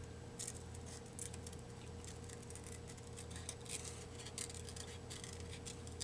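Paper pieces being handled and shuffled on a craft table: irregular light crisp ticks and rustles, over a faint steady electrical hum.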